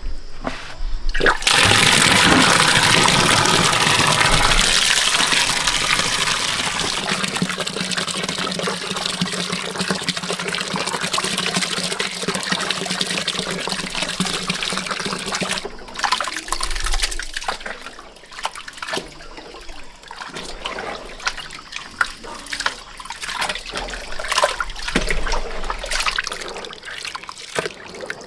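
Water gushing steadily for about fourteen seconds, then easing off about halfway through to an uneven trickle with splashes and drips.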